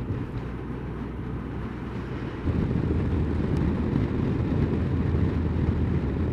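Honda CBF1000 motorcycle riding along, its engine and wind noise a steady low rumble that gets louder about two and a half seconds in.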